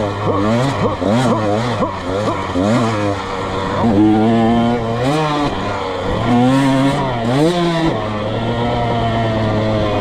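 Dirt bike engine being ridden hard, revving up and down repeatedly. There are quick throttle blips over the first few seconds, then longer climbs in pitch that drop back off.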